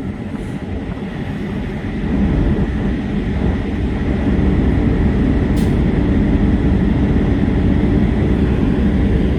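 Semi-truck diesel engine running with a steady low rumble, growing louder about two seconds in.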